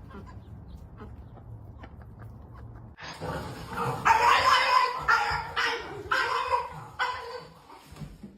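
A low hum, then, about three seconds in, a run of loud animal calls, about five in a row, each lasting under a second.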